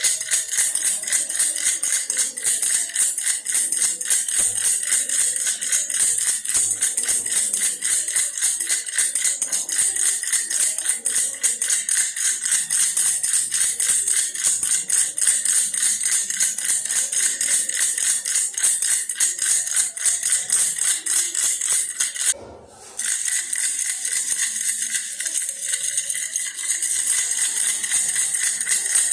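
Baby's toy bear rattle shaken continuously, a rapid steady jingling rattle. It breaks off for about half a second roughly three quarters of the way through, then carries on.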